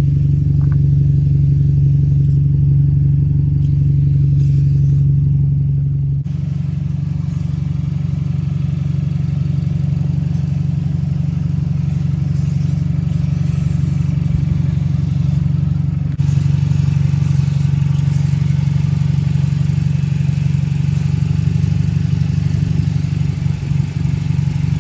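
Car engine running steadily with a low, even hum, changing abruptly twice.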